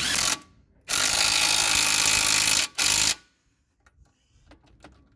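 Impact wrench running in three bursts: a short one, a long one of nearly two seconds, then a short one, followed by a few light clicks of tools.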